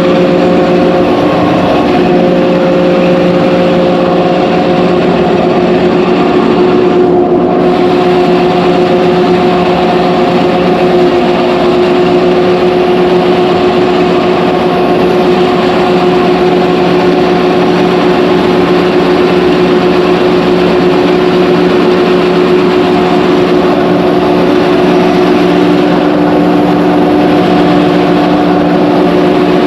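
Engine-driven rice threshing machine running steadily: a loud, continuous mechanical hum that holds one pitch throughout.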